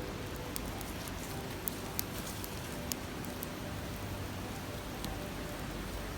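Steady rush of a river over rocks, with a wood campfire crackling on top: a handful of sharp pops, the loudest about two seconds in.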